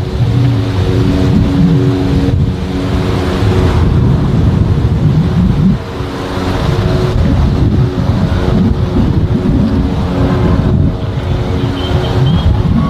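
Cessna 172's piston engine and propeller passing overhead: a steady hum of several held pitches. Gusts of wind rumble on the microphone underneath.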